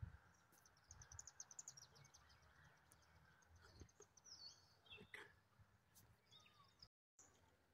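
Faint birdsong: a quick trill of high repeated notes, then a few short high chirps, over a quiet outdoor background. The sound cuts out briefly near the end.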